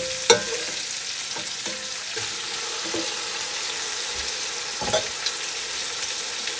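Raw chicken sizzling as it fries with sautéed ginger, garlic and onion in a hot soup pot, a steady high hiss, with a few sharp knocks near the start and once about five seconds in.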